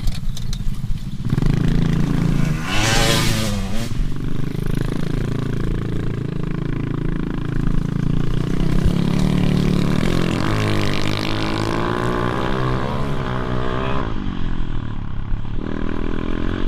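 Motorbike engine running and revving up and down again and again, with a short loud burst of noise about three seconds in.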